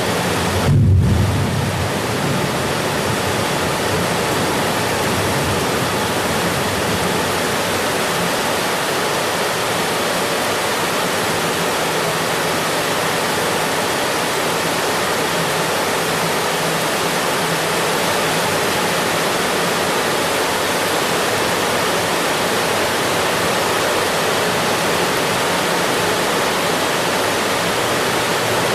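Steady heavy rain, an even hiss with no single drops standing out. About a second in, a brief low rumble rises under it and fades.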